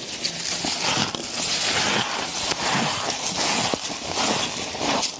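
Crunchy ice being chewed close to the microphone: a run of crackling crunches, one bite after another, well under a second apart.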